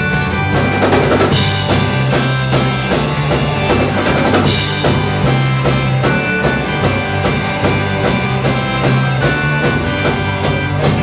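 Live rock band playing a 1960s garage-rock cover: electric guitar, bass and a drum kit driving a steady beat with snare hits. It closes on a final crash near the end.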